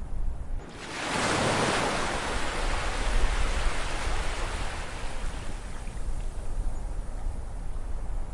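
An ocean wave breaks on the shore about a second in, a rush of surf that swells and then washes out and fades over several seconds, over a steady low rumble of the sea.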